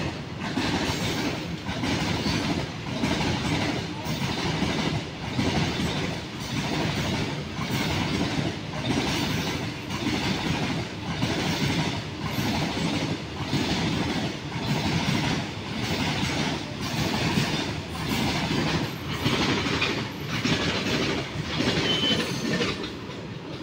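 Indian Railways goods train of covered wagons rolling past, its wheels clattering over the rail joints in a steady rhythm that swells and dips about once a second. The sound fades near the end.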